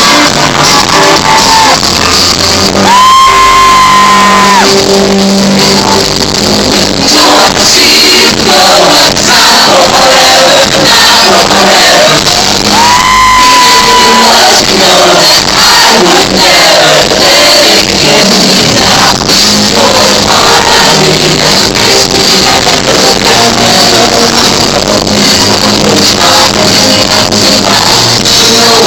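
Live band and singers performing a song, with two long held vocal notes and the audience shouting along. The recording is loud and harsh, from a phone that captured it badly.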